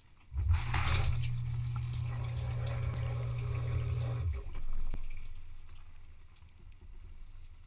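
Dishwasher pump switching on with water rushing through the machine, running about four seconds over a low hum, then cutting off as the water sound fades away.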